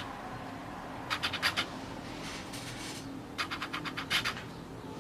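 Glossy magazine pages being handled and turned, the paper rustling in short crackly bursts about a second in and again past the middle.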